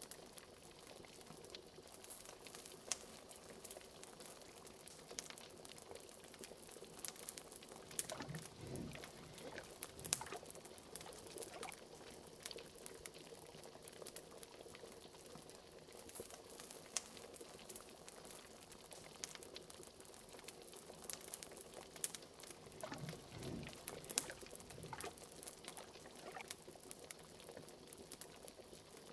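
Liquid bubbling steadily in a pot as a cauldron, with sharp crackles of a wood fire throughout. Deeper gurgling swells twice, about a third of the way in and again about four-fifths of the way in.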